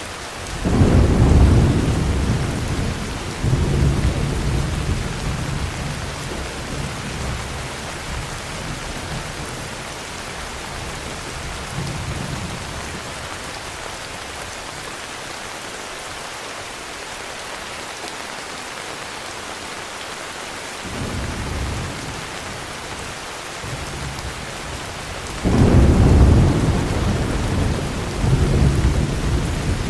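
Heavy rain falling steadily, with rolling thunder: a loud peal about a second in that rumbles away over several seconds, a softer rumble around twenty seconds in, and another loud peal near the end.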